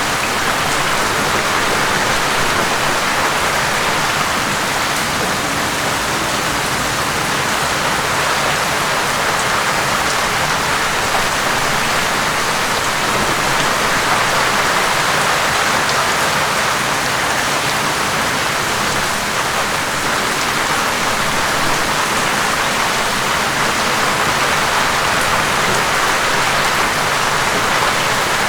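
Steady heavy rain falling, an even unbroken hiss of drops on a surface.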